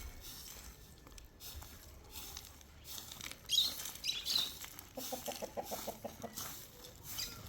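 Chickens clucking: a few short high calls about three and a half seconds in, then a quick run of rapid pulses lasting about a second.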